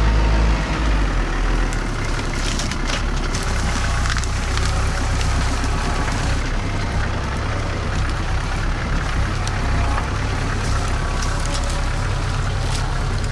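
Tractor engine running steadily, its low note shifting slightly about half a second in, with scattered short clicks and snaps over it.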